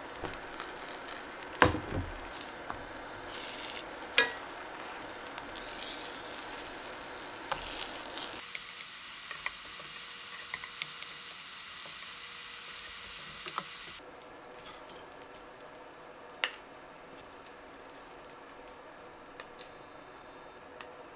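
Potato pancakes sizzling in hot oil in a frying pan, with a few sharp knocks of wooden utensils against the pan. The frying sound drops away about two-thirds of the way through, leaving a quieter background and one more knock.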